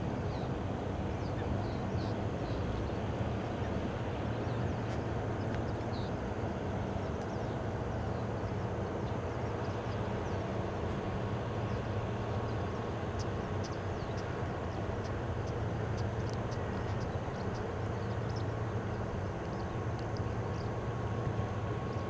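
Steady low rumble of jet airliner engines, even in level throughout, with a faint steady whine joining about halfway through and a few tiny high chirps of birds.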